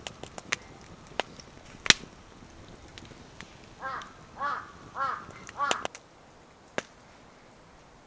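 A crow cawing four times in a row, about half a second apart, near the middle. Scattered sharp knocks or cracks come before and after, the loudest about two seconds in.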